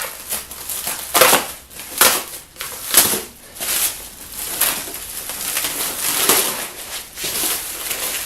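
Crinkling and rustling of packing material as a boxed transmission is handled, with sharp strokes about one, two and three seconds in and a longer stretch of rustling after that.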